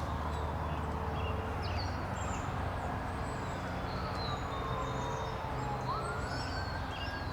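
Ambulance siren wailing, one slow tone that falls in pitch over a few seconds and starts rising again about six seconds in.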